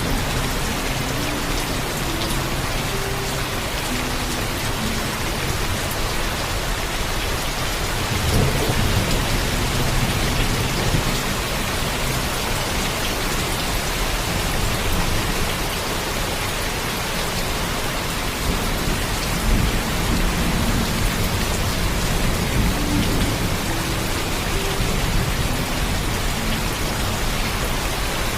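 Heavy, steady rain with rolling thunder. The thunder rumble swells about a third of the way in and again a little past the middle.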